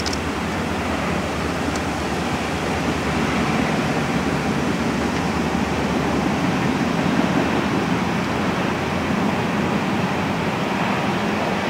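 Distant freight train crossing a high steel trestle bridge: a steady rumble of three EMD SD70-series diesel locomotives (an SD70AH and two SD70Ms) and their cars rolling over the bridge, swelling slightly a few seconds in.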